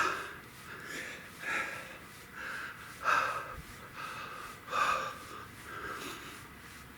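A man breathing hard while pedalling an exercise bike, with a loud breath about every second and a half.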